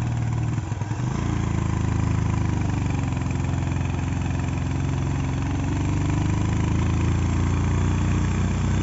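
A vehicle engine running steadily. Its note breaks and dips briefly about a second in, then holds steady again.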